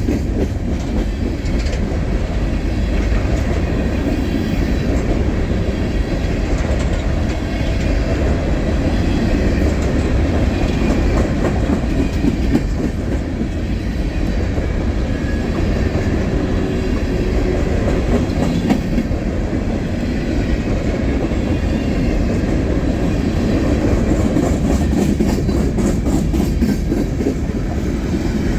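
Freight train cars rolling past on the rails, a loud, steady rumble of steel wheels on track that runs on without a break.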